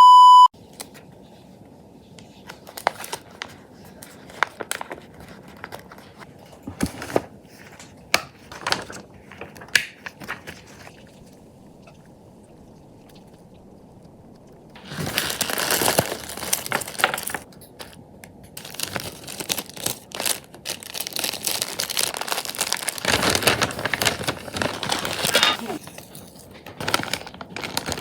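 Gift-wrapping material being handled close up: scattered light rustles and taps, then two long stretches of dense crinkling and tearing. A short electronic beep sounds right at the start.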